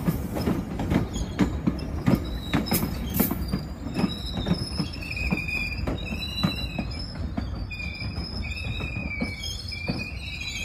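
GO Transit bilevel passenger train rolling slowly past, its wheels clicking over rail joints for the first few seconds. It then runs quieter, with a wavering high-pitched wheel squeal through the rest.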